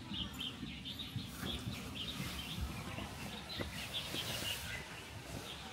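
Small birds chirping in short, rapid, repeated calls over a low, steady background hum.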